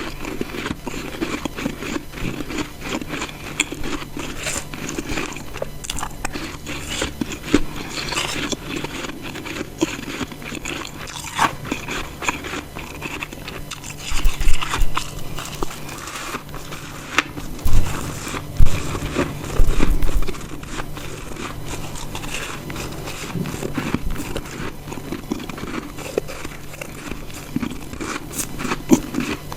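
Close-up biting and chewing of chunks of ice: a steady run of crisp crunches and crackles as the ice breaks between the teeth. A few louder, deeper crunches come in quick succession about halfway through.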